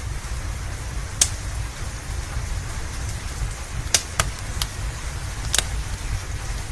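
Wood fire crackling over steady rain: a constant low rumble and hiss, broken by about five sharp pops from the burning logs. The loudest pops come about a second in and about four seconds in.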